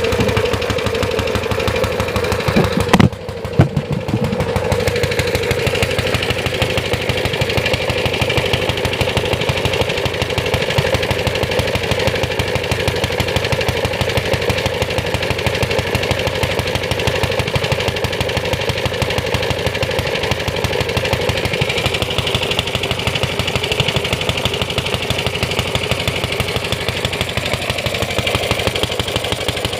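Briggs & Stratton Model FH single-cylinder engine running steadily with a fast, even string of firing pulses. About three seconds in it falters for a moment with two sharp pops, then runs on as before.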